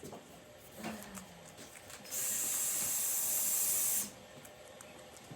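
A burst of steam hissing out of a cooking pot on the boil for about two seconds, starting and stopping abruptly.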